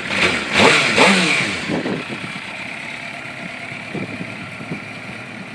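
An engine revs in a short burst in the first second or so, then drops back to a steady running sound that slowly fades.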